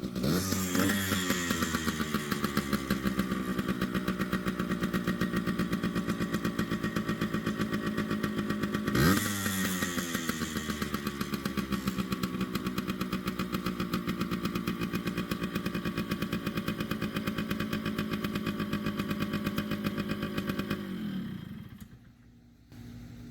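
Yamaha RT100's two-stroke single-cylinder engine running after a carburettor and reed rebuild, steady between two quick throttle blips: one just after the start and a sharper one about nine seconds in. Near the end the engine winds down and stops. It runs but still needs a little carburettor tuning.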